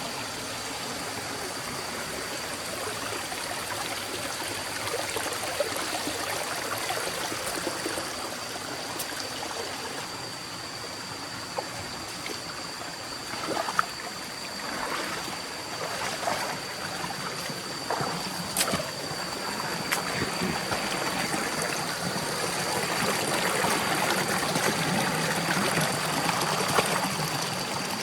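Forest stream flowing steadily, with a few sharp clicks about halfway through. The water grows a little louder near the end.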